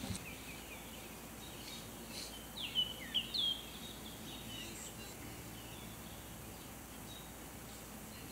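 Faint outdoor ambience with a steady low hiss; a bird gives about four short, quick chirps around two and a half to three and a half seconds in.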